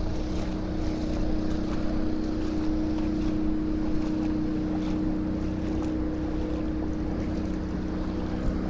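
Swollen, flooding River Nidd rushing steadily, with a steady motor hum running under it.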